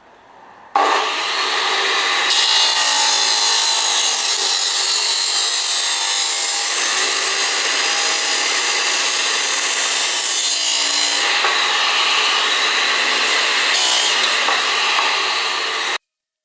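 A power tool running steadily as it cuts. It starts abruptly about a second in and stops sharply near the end.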